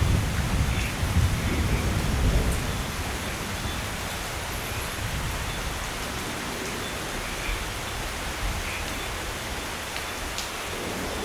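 Steady rain falling, with a low thunder rumble dying away over the first couple of seconds.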